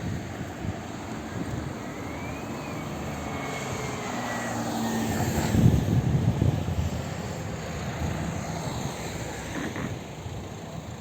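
An engine passing by: it grows louder to a peak about halfway through, then fades away.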